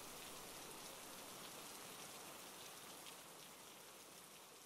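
Faint, steady rain, an even patter of drops, slowly fading out.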